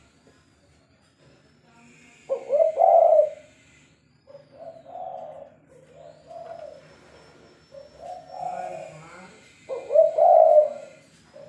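Spotted dove (tekukur) cooing: a loud two-part coo about two seconds in, followed by a run of softer coos, and the phrase starts again near the end.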